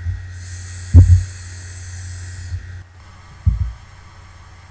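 A steady low electrical hum with a dull low thump about a second in and a faint high hiss; the hum and hiss cut off abruptly a little under three seconds in, leaving a few softer low thumps.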